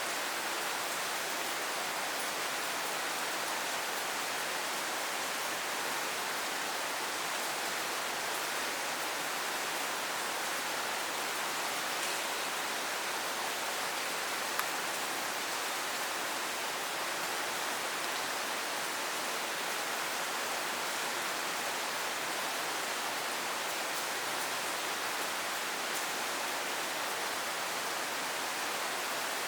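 Steady rain falling, an even hiss with faint scattered drip ticks and one sharper tick about halfway through.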